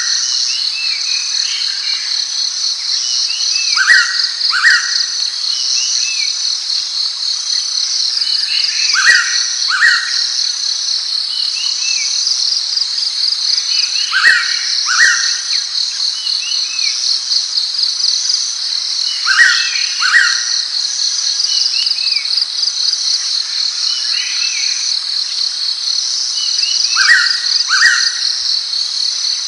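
A pitta's two-note whistled call, repeated about every five seconds. Behind it runs a loud, steady, pulsing insect drone, with softer chirps from other small birds.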